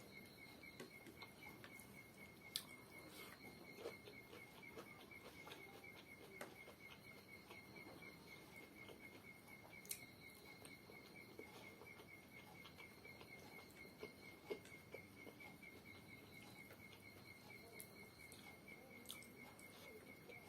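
Faint, steady chirping of a cricket: one high note pulsing evenly, several times a second, with a few faint clicks scattered through it.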